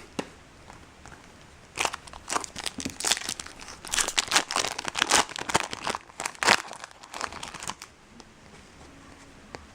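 Foil wrapper of a trading-card pack crinkling and tearing open, with irregular crackling rustles that last for several seconds and ease off near the end.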